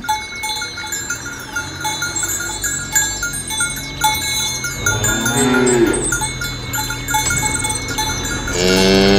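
Cattle mooing: a short moo about five seconds in and a longer, louder one near the end, over the steady clinking of bells worn by the herd.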